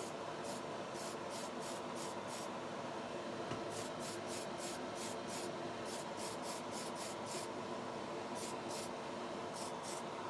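Paint spraying onto a model car body in short, quick bursts of hiss, several in a row with brief pauses between runs, over the steady hum of a spray booth's extractor fan.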